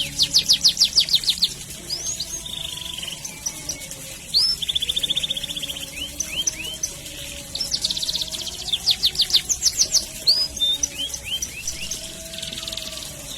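Domestic canary singing: runs of rapid downward-sweeping chirps alternating with buzzy, tightly packed trills (rolls), the song running on without pause.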